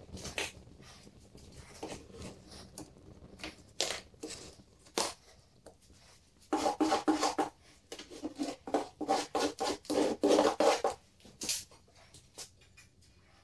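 Wooden casting flask burning after the pour, with scattered crackles and pops. About six seconds in, a louder run of quick clattering bursts lasts some four seconds.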